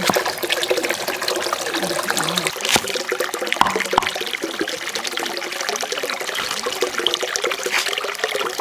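Water running and splashing steadily, with small clicks and knocks through it.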